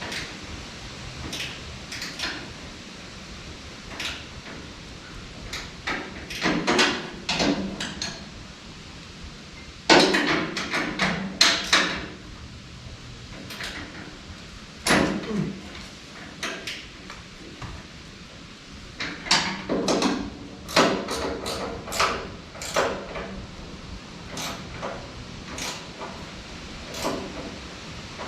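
Irregular metal clanks and knocks from hand tools working on a Deutz tractor's fender mounts, coming in clusters of several quick strikes, some with a brief ring.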